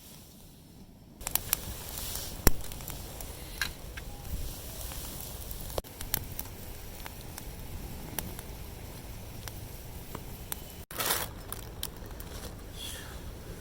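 Wood campfire crackling, with scattered sharp pops, the loudest about two and a half seconds in.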